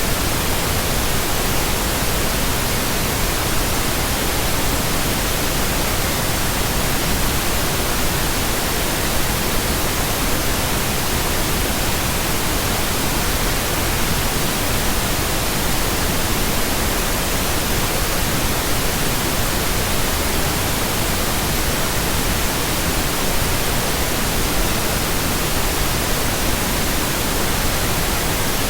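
Steady synthetic pink noise: an even, unchanging hiss spread across all pitches, with no tones or events.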